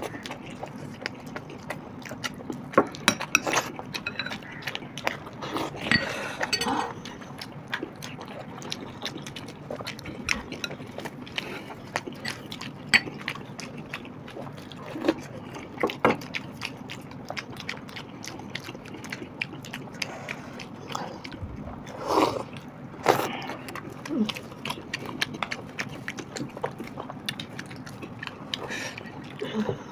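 Close-miked eating sounds: chewing and wet mouth clicks as parathas are eaten by hand, with scattered sharp ticks from the food being torn and handled.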